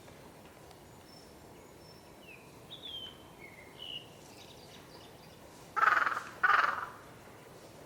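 Wild birds calling: a few short, high, falling chirps, then two loud, harsh calls about half a second apart.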